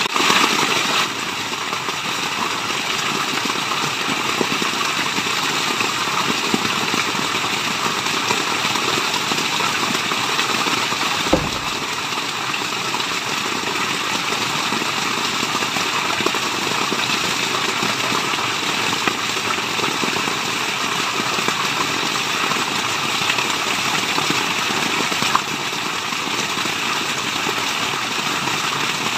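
Waterfall: a steady, even rush of falling water, with a single brief click about eleven seconds in.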